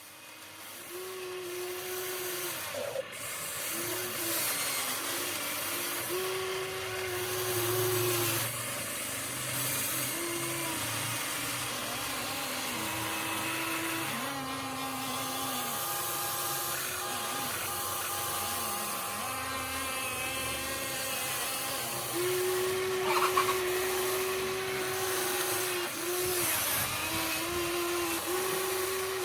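Small electric motors and gearboxes of a Huina 1593 RC excavator whining as the boom, arm and bucket are worked. The whine keeps stepping up and down in pitch as different functions start and stop, with a brief louder scrape about 23 seconds in.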